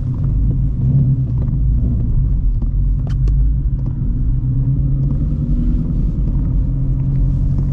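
Shelby GT350's 5.2L Voodoo V8, fitted with long-tube headers, an X-pipe and a Borla catback, running at low, steady revs with a deep exhaust rumble while the car creeps along.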